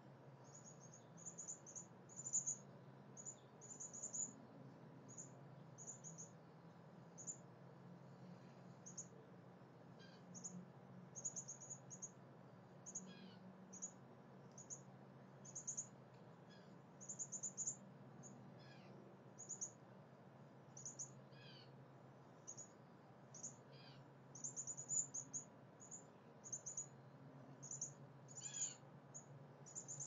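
Faint bird chirping: short, high chirps repeated at irregular intervals, sometimes in quick runs of two or three, with an occasional falling note, over a steady low hum.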